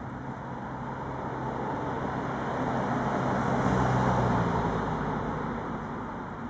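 A motor vehicle passing by: a low engine hum and road noise that swell to a peak about four seconds in, then fade away.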